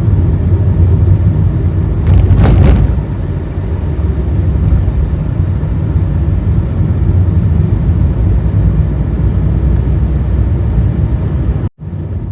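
Car driving on the road: a steady low rumble of engine and tyres, with a brief louder hiss about two seconds in. The sound cuts out abruptly for a moment near the end.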